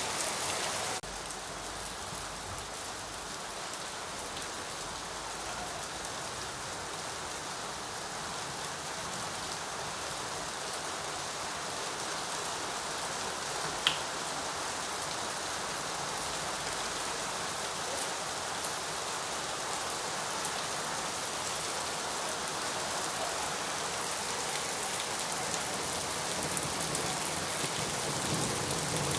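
Steady rain falling on a surface, an even hiss of many drops. It drops a little in level about a second in. One sharp tick stands out about halfway through.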